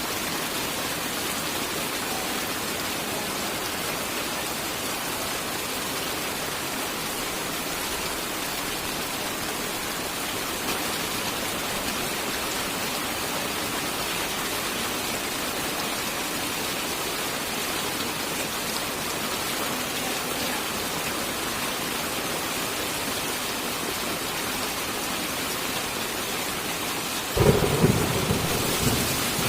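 Steady heavy rain falling, with a sudden loud, deep thunderclap a couple of seconds before the end that rumbles briefly and fades.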